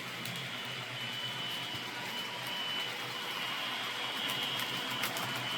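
Model Pendolino train with a sound decoder running on the track: a steady electric traction hum from its onboard speaker, with a high whine that comes and goes and light wheel and motor noise.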